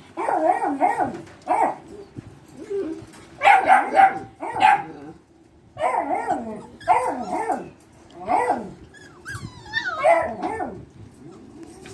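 Beagle barking and yipping in short, repeated bursts, with a thin, high wavering whine a little before the last barks.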